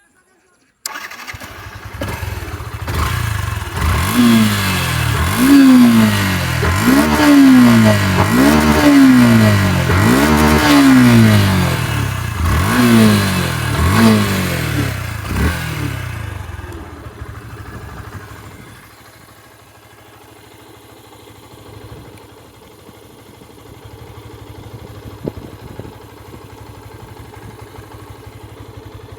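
Yamaha FZ-S V3 motorcycle's 149 cc single-cylinder engine starting about a second in, then revved in a series of quick throttle blips, each rising and falling in pitch. After about 16 seconds it settles to a much quieter steady idle.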